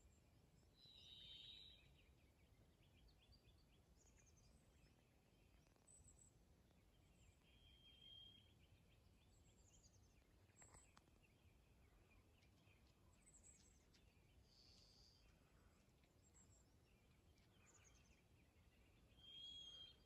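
Faint songbirds calling and singing in the trees: scattered short high chips, rapid trills and brief whistled notes. The loudest notes come about a second in, around eight seconds and just before the end, over a faint low steady background rumble.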